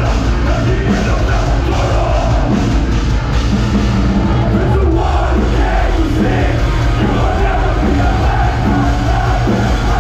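Loud live metalcore song played by a band, with crowd noise and yelled vocals in the mix.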